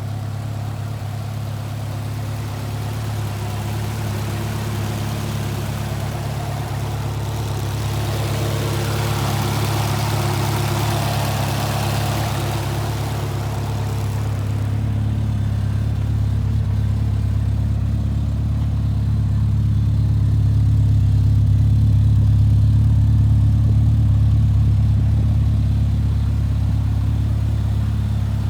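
Turbocharged, individual-throttle-body Mercedes 190E 2.3-16 16-valve four-cylinder engine running steadily at idle. A hiss swells for several seconds about a third of the way in, then fades.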